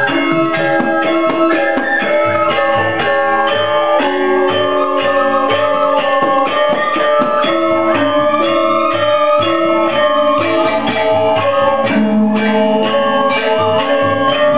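Balinese gamelan orchestra playing for a bird dance: bronze metallophones in a dense, fast stream of struck, ringing notes over low drum beats.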